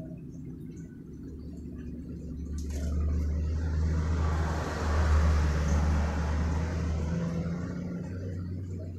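A vehicle passing by: a low rumble that builds, is loudest about five seconds in, and fades away.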